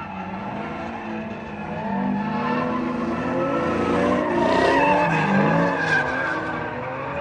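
A car sliding in a drift, its engine revving up and down while the tyres squeal, growing loudest about four to five seconds in and then easing off.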